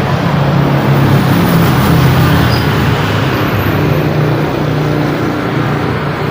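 Busy road traffic: motor vehicles running and passing in a dense, steady wash of engine and tyre noise, with a low engine hum underneath.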